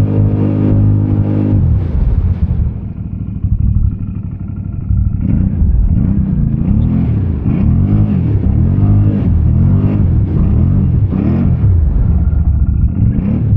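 ATV engine held at steady revs for the first second or two, then dropping to a rough, quieter running. From about five seconds in it is revved up and down over and over, about once a second, as the quad is throttled through a mud hole.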